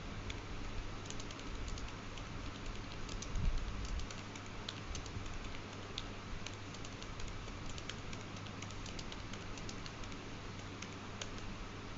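Many light, irregular clicks, several a second, over a steady hiss and a low hum.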